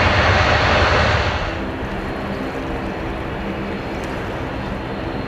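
Steady airliner jet engine noise with a few held tones, under an even hiss that cuts off about a second and a half in, leaving the engine sound alone.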